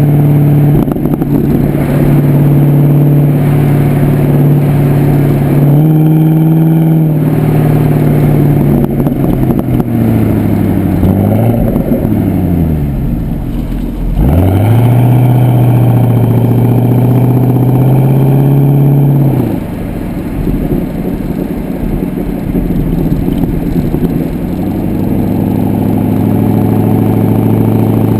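Exhaust note of a Pontiac G8 GXP's LS3 V8 through a Corsa exhaust, heard from the rear while driving. The engine holds steady speeds with a few pitch steps, then falls and climbs again around the middle. About two-thirds of the way through it eases off to a quieter, lower note.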